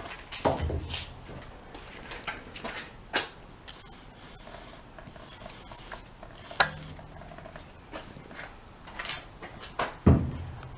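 Scattered clicks and knocks of objects being handled, with three heavier thumps: about half a second in, midway, and near the end.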